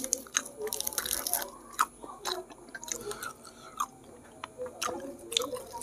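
A person chewing and biting a mouthful of raw lettuce leaves: irregular crisp crunches and wet mouth clicks.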